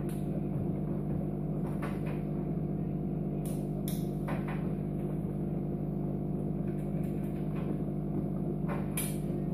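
Chauvet Hurricane 650 fog machine giving a steady electrical hum while its heater stays cold, with a few light knocks.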